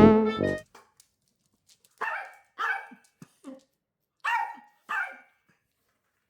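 A Maltese barking: four sharp, high barks in two pairs about two seconds apart, with a softer bark between them. These are demand barks for a walk. A background music track ends in the first half second.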